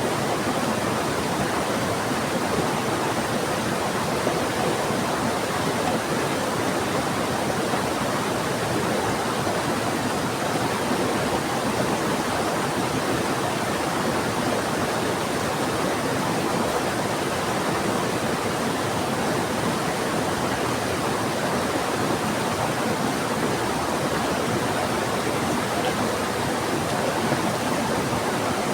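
Steady rushing water: heavy rain falling together with a fast-flowing river, an even unbroken roar.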